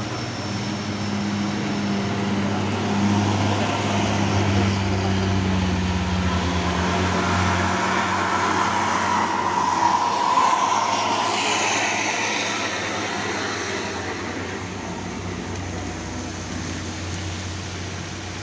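Heavy diesel truck labouring up a steep grade, its engine note steady at first, then growing louder as it passes close, loudest about ten seconds in, before fading away.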